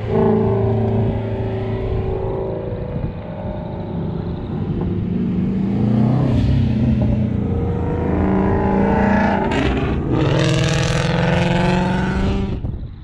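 A performance car's engine revving loudly several times, its pitch climbing and falling, with the hardest rev in the last few seconds before the sound cuts off abruptly.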